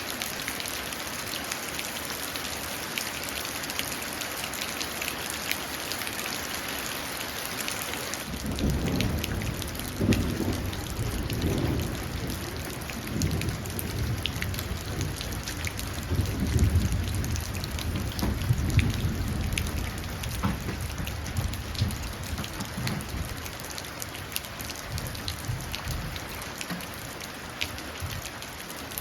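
Steady rain falling and dripping into a puddle. About eight seconds in, a long roll of thunder rumbles in, swells twice and slowly dies away.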